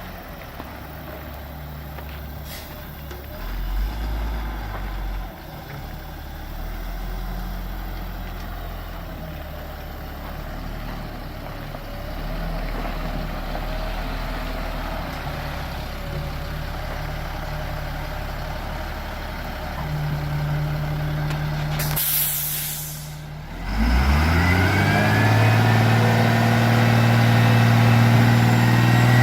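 Diesel engine of a 2004 Freightliner M2 grain truck running at idle, with a sharp hiss of released air from the air brakes lasting about a second and a half, about 22 seconds in. The engine then speeds up and holds at a higher, louder pitch.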